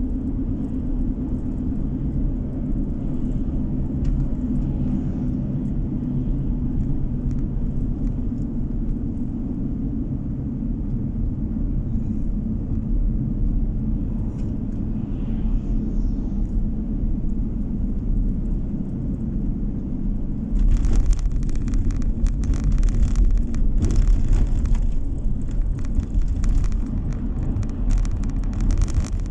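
Car driving, heard from inside: a steady low rumble of engine and tyres with a droning hum. For about the last eight seconds it grows louder and hissier.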